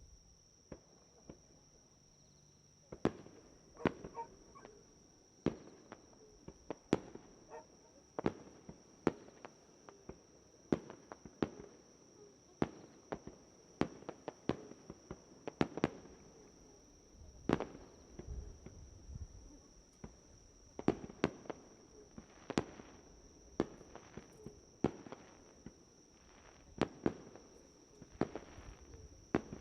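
Fireworks shells bursting overhead in a rapid, irregular series of sharp bangs, starting about three seconds in, with the odd louder report among them.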